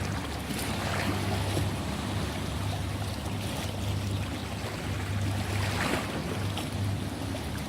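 Ocean waves washing in, with surges about a second in and again near the end. A steady low hum runs underneath.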